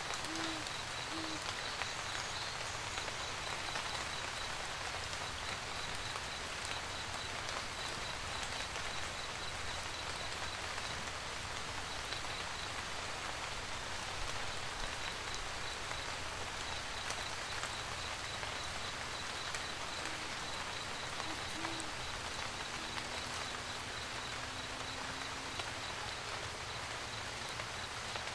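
Steady rain falling, with an owl hooting in short, low notes: twice in the first second or so and twice more about twenty seconds in.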